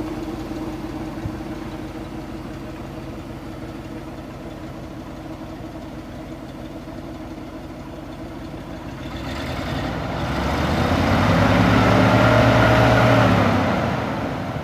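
1969 Chevrolet C60 grain truck's engine idling steadily, then revved up about nine seconds in and let back down to idle near the end.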